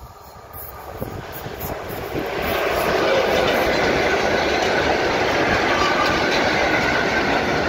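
Freight train approaching and passing close by: an ET22 electric locomotive followed by a long string of ballast hopper wagons, their wheels rolling on the rails. The sound grows over the first two seconds or so, then stays loud and steady as the wagons pass, and cuts off suddenly at the end.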